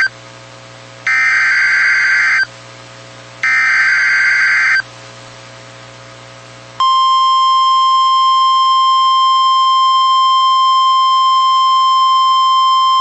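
Emergency Alert System tones on NOAA Weather Radio. Two more harsh, buzzy data bursts of the SAME header follow the one ending right at the start, a second or so apart. After a short pause, the steady 1050 Hz weather-radio warning alarm tone starts about seven seconds in and holds, signalling that a warning follows.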